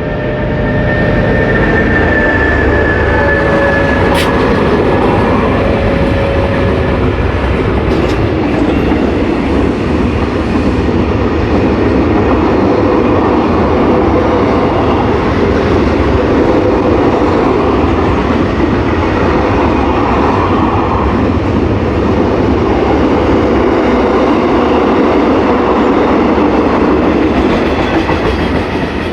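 A freight train of empty gas tank wagons rolling past close by, with a steady loud rumble and clatter of wheels on the rails. A couple of faint high steady tones fade out in the first seven seconds or so.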